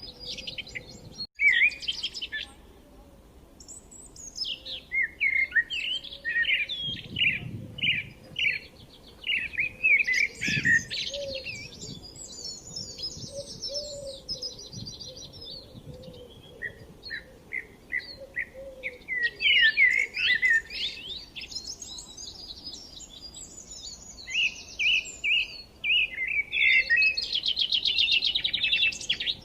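Songbirds chirping and singing, many short calls and trills overlapping, with a dense buzzy trill near the start and again near the end.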